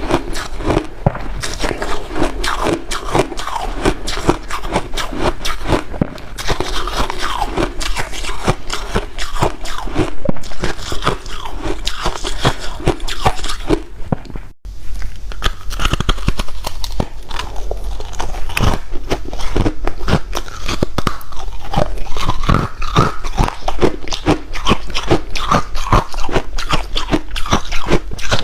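A person biting and chewing crunchy white ice: dense, irregular crunching and crackling, broken by a brief pause about halfway through.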